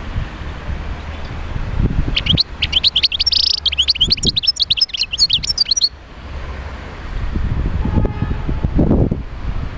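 European goldfinch singing a fast, twittering song that starts about two seconds in and lasts three to four seconds, over a low rumble.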